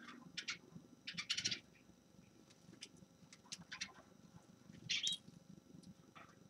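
A small finch giving short, high chirps and twittering notes, with a quick run of notes about a second in and a brighter call about five seconds in.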